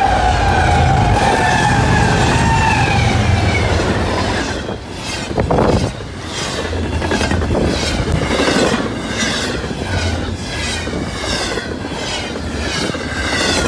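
BNSF Z train passing at speed behind a GE Tier 4 Evolution-series locomotive: a falling tone over the first few seconds as the locomotive goes by, then the cars rushing past with regular clacks of wheels over the rail joints.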